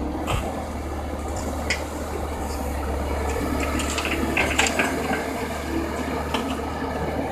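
Komatsu excavator's engine running steadily, with scattered clinks and clatters of crushed rock and the steel bucket as rock is loaded into a dump truck. The clattering is thickest about four to five seconds in.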